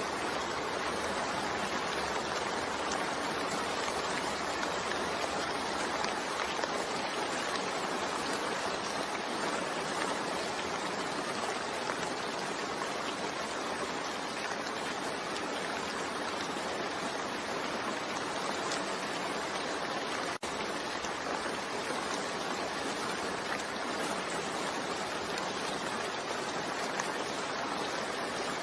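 Steady rain falling, a dense even hiss of drops with no let-up, broken only by a momentary dropout about twenty seconds in.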